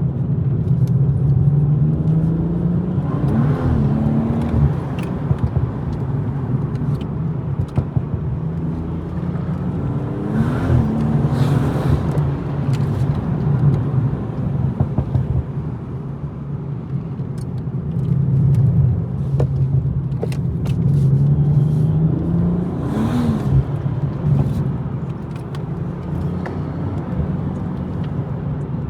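BMW M240i's turbocharged straight-six running under way, its note dipping and climbing back in pitch three times, about 3, 11 and 23 seconds in.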